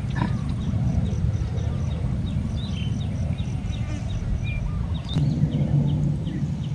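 Small birds chirping in short, repeated high calls over a steady low rumble; the rumble grows louder about five seconds in.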